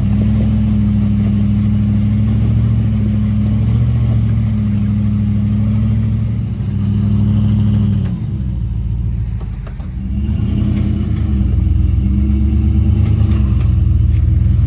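Off-road vehicle's engine running under load, its revs holding, then dropping about eight seconds in before building back up.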